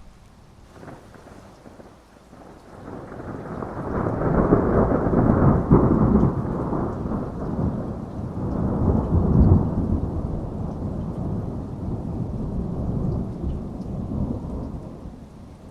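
Thunder over steady rain: a faint crack about a second in, then a long deep rolling rumble that builds from about three seconds, swells twice and dies away near the end.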